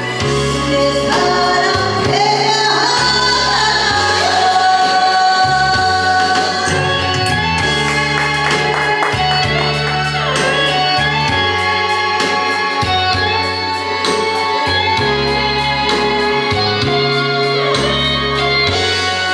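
Korean popular song: a singer's voice over a band backing with a bass line that steps through the chords.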